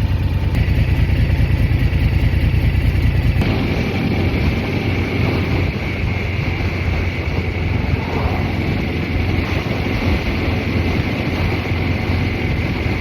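Motorcycle engine running steadily, then, about three and a half seconds in, the sound changes to the engine under way with wind rushing over the microphone, as when the bike rides off.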